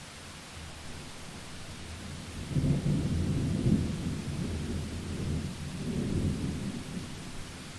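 Thunder rumbling over steady rain: a low roll that swells about two and a half seconds in, surges again near the end and fades away.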